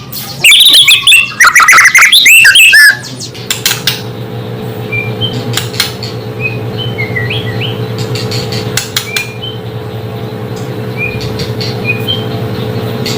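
White-rumped shama (murai batu) singing loudly in rapid whistled phrases, which cut off abruptly about three seconds in. A steady low hum follows, with faint short chirps and a few sharp clicks.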